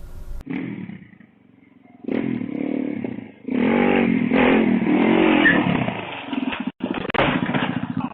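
Motorcycle engine revving, its pitch rising and falling several times, loudest in the middle.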